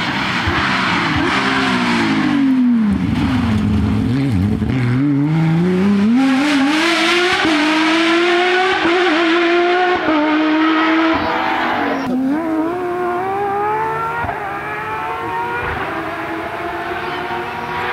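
Porsche 911 rally car's flat-six engine at full effort on a stage. The revs drop over the first few seconds, then climb steadily and hold high, with one short dip about twelve seconds in before climbing again.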